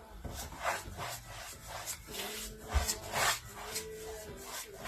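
A paintbrush stroking liquid varnish across a painting's surface: a run of soft brushing strokes, about two a second.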